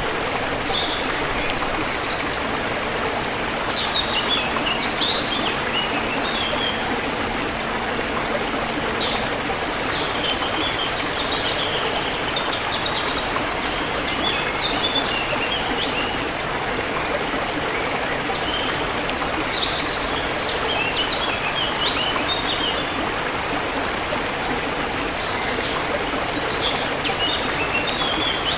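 Forest river flowing steadily with a continuous rush of water, while small birds chirp and twitter in scattered bursts over it.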